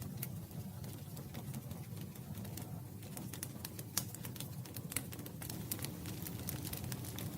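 Wood campfire crackling: many irregular sharp snaps and a few louder pops over a steady low rumble of burning.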